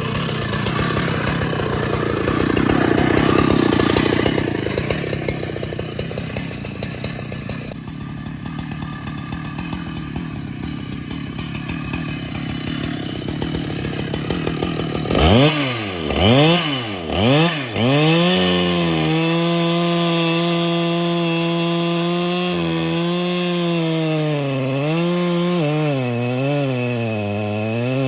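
Husqvarna 395XP two-stroke chainsaw cutting wood for about fifteen seconds. It is then revved in three quick bursts and held at high revs, its pitch dipping slightly now and then.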